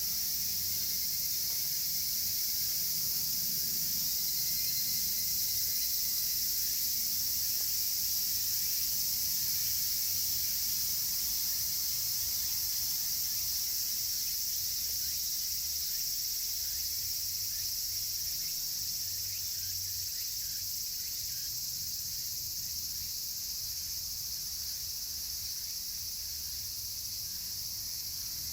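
Dense chorus of cicadas (semishigure): a steady, high-pitched shrilling drone, easing slightly in loudness over the second half.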